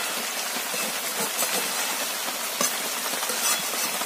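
Chicken pieces in tomato-onion masala sizzling steadily in oil in a metal kadai, cooking on low heat without any water. A metal spatula scrapes and knocks against the pan a few times as the mix is stirred.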